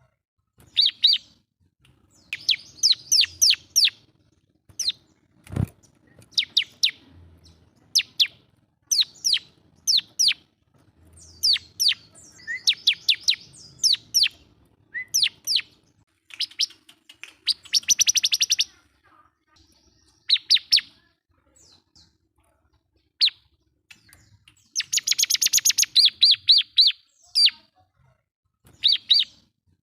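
Bar-winged prinia (ciblek) singing in vigorous bursts of quick, sharp, high chirps separated by short pauses, with a couple of longer dense trills: the persistent song with which it calls out a rival. A single dull thump about five and a half seconds in.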